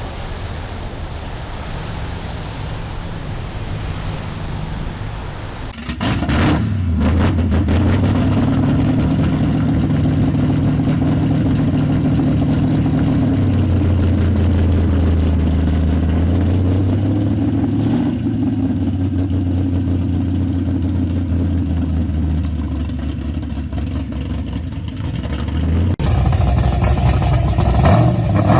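Engines of straight-axle gasser cars running loud in a string of clips: a noisy engine sound first, then about six seconds in a deep, steady engine note that rises and falls gently with the throttle, and a sudden change to another running engine near the end.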